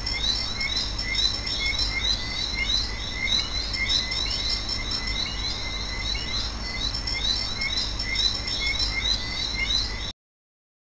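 Birds chirping: many short, high calls, several a second, over a low steady hum. The sound cuts off suddenly near the end.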